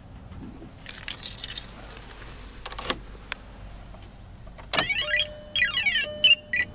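Volkswagen GTI's engine idling with a low steady hum, with a brief jangle about a second in and a few sharp clicks. Music starts near the end.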